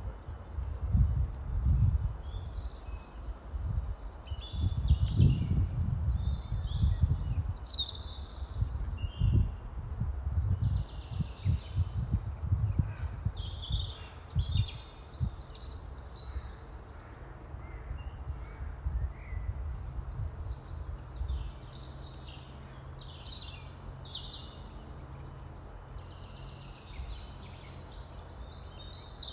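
Small birds chirping and calling over and over, with irregular low rumbling through about the first half, giving way to a steady low hum.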